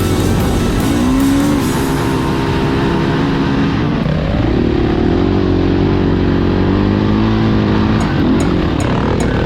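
Dirt bike engine running under way on a trail, its pitch climbing and dropping several times as the rider opens and closes the throttle.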